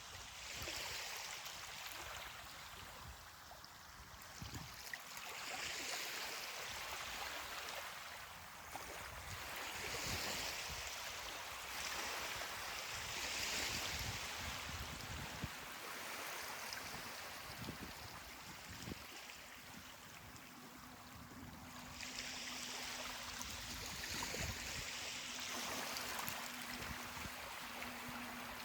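Gentle ocean surf: small waves breaking and washing up a beach, the hiss swelling and fading every few seconds.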